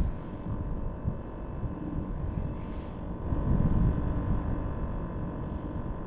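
A steady low engine rumble with a constant hum, a little louder for a moment around the middle.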